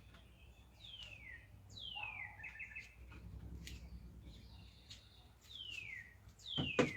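Songbird singing in a yard: clear whistled notes that slide down in pitch, repeated several times, one followed by a short quick trill. Two sharp knocks near the end are louder than the birdsong.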